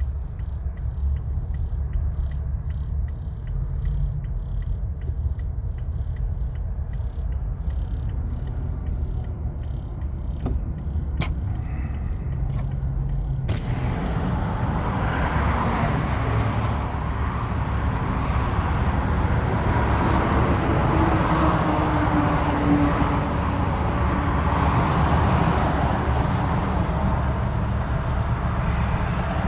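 Road vehicle noise: a steady low engine and road rumble. About 13 seconds in it changes abruptly to louder, fuller traffic noise.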